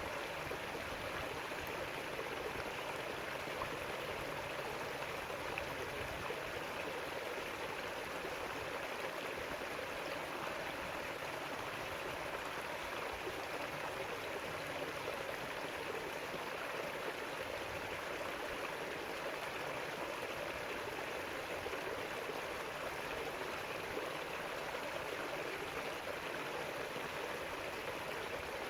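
River water flowing over rocks: a steady, even rush and babble.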